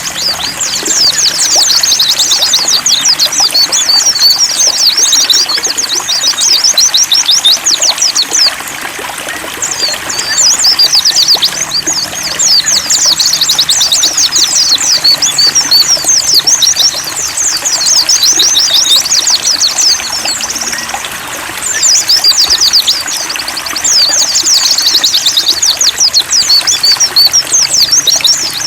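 Pleci (white-eye) songbirds singing a fast, high, twittering chatter in long bouts, with short breaks about 9 and 21 seconds in, over steady trickling water.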